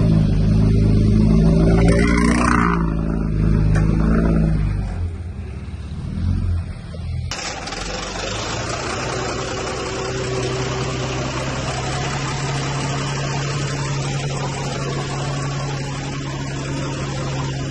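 Heavy diesel earthmoving machinery running: a loud, deep engine note for the first five seconds that then falls away, followed about seven seconds in by a sudden switch to a steady engine drone with a rougher, noisier sound.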